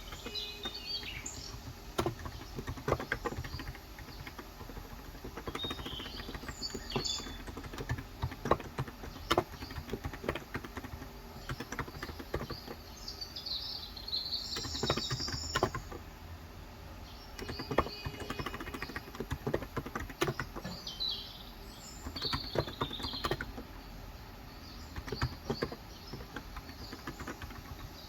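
Typing on a Cox Endeavor tenkeyless keyboard with 35 g electrostatic-capacitive (non-contact) switches, keystrokes coming in irregular runs with short pauses. Small birds chirp in brief high phrases now and then.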